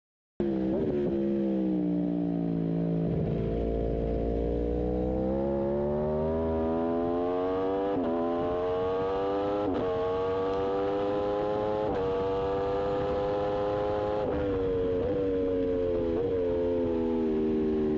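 Aprilia RSV4 1100 Factory's V4 engine running hard on the track, its pitch climbing steadily with brief sharp dips about every two seconds, like quickshifter upshifts. It then eases off and falls in pitch near the end.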